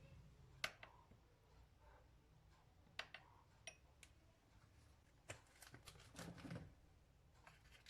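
Quiet room with a few faint, scattered clicks and taps of small objects being handled, and a brief soft rustle about six seconds in.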